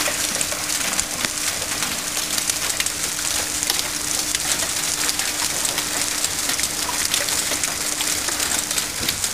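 Heavy hail pelting down: a dense, steady clatter of countless small impacts from pea- to marble-sized hailstones.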